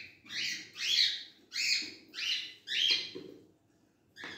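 A bird calling: a run of five short chirps about half a second apart, a brief pause, then another chirp near the end.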